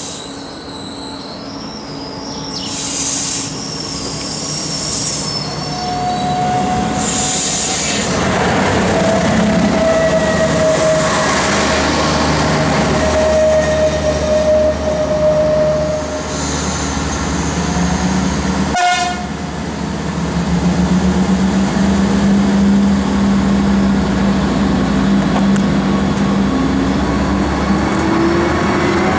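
Passenger trains passing through a station. One approaches with high wheel squeals and a long, steady horn-like tone. After a cut, another train's engine drones steadily as it rolls close past, rising in pitch near the end.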